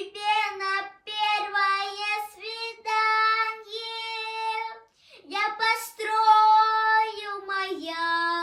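A child singing a song unaccompanied, holding long sung notes, with two short pauses between phrases.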